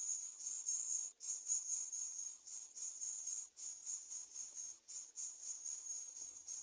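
Insects chirring steadily: a high, fast-pulsing trill.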